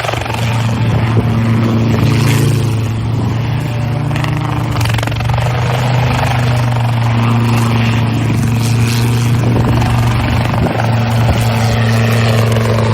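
Aircraft engine noise, loud and steady, with a strong low hum over a broad rushing wash; it cuts off suddenly at the end.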